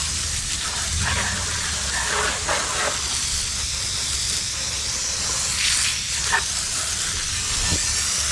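Water spray hissing steadily as a dirt bike is rinsed down, the dirt washing off the frame and shocks.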